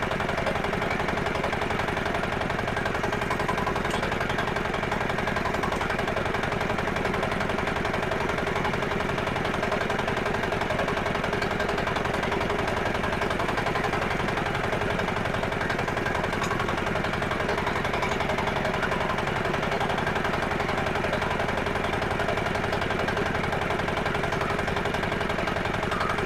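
A 50 hp crawler tractor's diesel engine running steadily, with a rapid, even knock.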